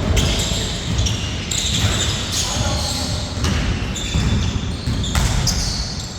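Basketball bouncing on a court during play: a handful of sharp, irregularly spaced bounces over a steady low rumble, with players' voices in the background.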